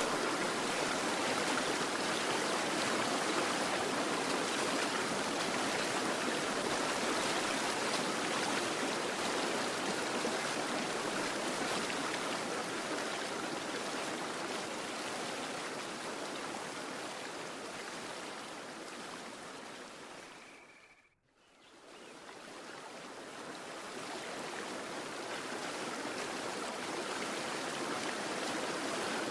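Running water of a stream, a steady rushing. It fades out to near silence about three quarters of the way through, then fades back in.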